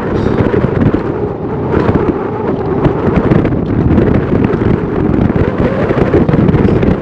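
Strong wind buffeting the microphone: a loud, continuous rumble that flutters unevenly.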